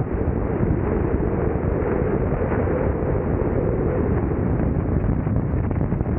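Strong wind buffeting the microphone of a camera mounted on a moving car: a steady, deep rushing noise with no let-up.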